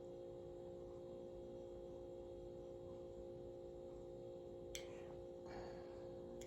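Faint steady hum in the room, with a small click near the end.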